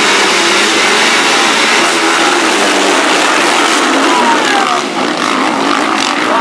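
Motocross bike engines running and revving under a loud, steady rushing noise.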